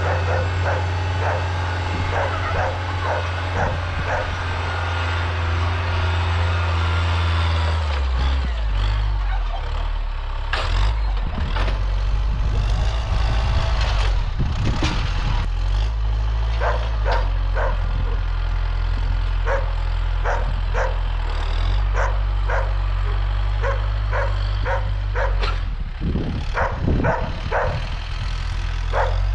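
A heavy vehicle engine running steadily while logs are moved, its note changing about eight seconds in, with a run of sharp knocks and clanks through the rest.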